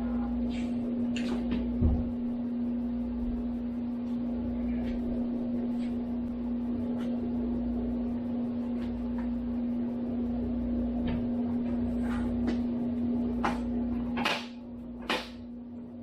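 A steady machine hum that stops suddenly about fourteen seconds in. Over it come scattered metallic clicks and clinks, with a single louder knock about two seconds in.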